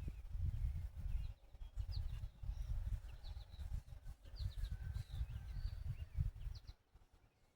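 Birds chirping in short, repeated high notes, over a low uneven rumble that cuts off near the end.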